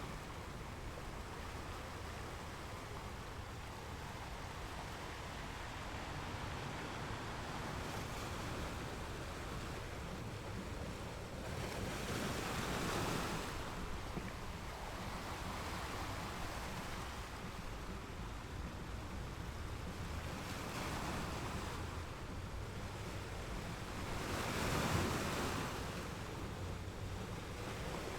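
Ocean waves breaking and washing on a beach, a steady rush of surf with two swells of a wave crashing, about twelve seconds in and again the loudest about twenty-five seconds in. Some low wind rumble on the microphone underneath.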